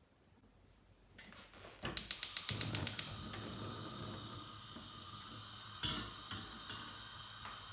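A mechanism clicking rapidly, about a dozen clicks in a second, followed by a steady hiss with a few soft knocks.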